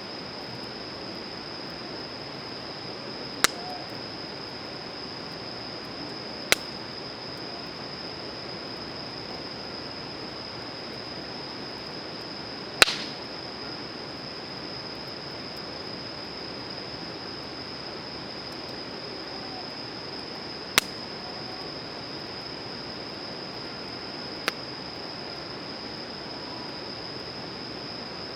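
Campfire burning with a steady hiss and five sharp, widely spaced pops of the wood, the loudest about halfway through. A steady high-pitched tone runs underneath.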